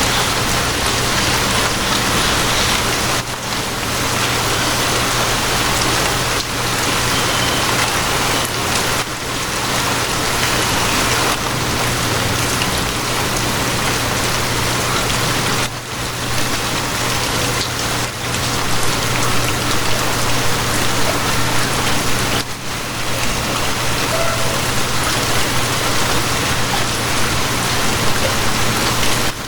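Steady rain falling, over a low steady hum.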